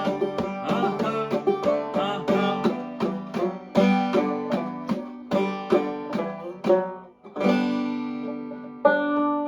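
Five-string banjo played clawhammer style: a steady run of plucked notes and brushed chords, ending in a strummed chord left ringing near the end.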